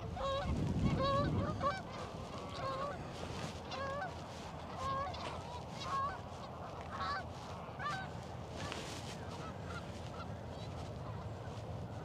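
A flock of Canada geese honking, many short calls overlapping, dense for the first eight seconds or so and thinning out after. A low rumble in the first two seconds is the loudest sound.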